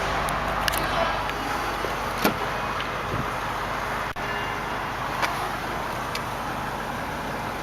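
Steady low hum of a 2003 BMW 745i's 4.4-litre V8 idling, with a few short clicks, the loudest a little over two seconds in.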